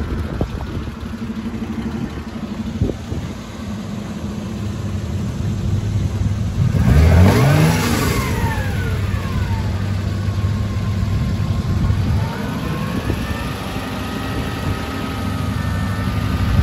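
1972 Fiat Dino coupé's 2.4-litre V6 running, blipped once sharply about seven seconds in, the revs rising and falling back to idle, then rising again as the car starts to pull away near the end.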